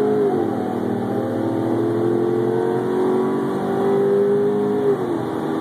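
Twin-turbocharged 392 Hemi stroker V8 of a Dodge Charger at full throttle, pulling from about 50 to 135 mph, heard from inside the cabin. The engine pitch climbs steadily through each gear, with one upshift just after the start and another about five seconds in.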